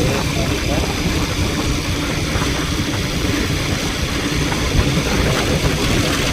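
A vehicle under way: a steady engine hum mixed with road and wind rumble, even throughout.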